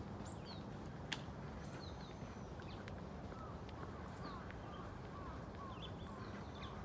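Small birds chirping outdoors: scattered short, high chirps throughout, and from about three seconds in a quick run of lower down-slurred notes, over steady low background noise. A single sharp click about a second in.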